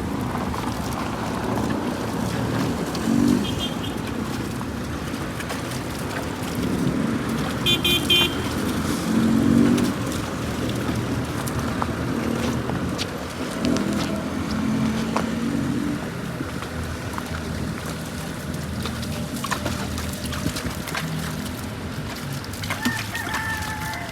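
Road traffic: vehicle engines running with a steady low rumble that swells now and then, and a few short high toots, the last one near the end.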